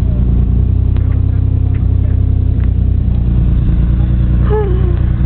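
1987 Pontiac Firebird Trans Am's V8 engine idling steadily.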